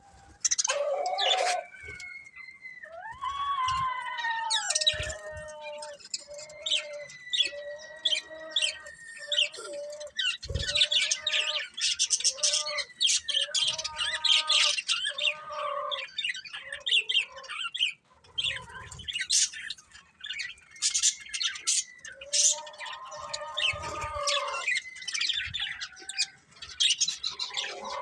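Budgerigars chirping and chattering: a busy run of short repeated calls mixed with quick high chirps, with only brief pauses.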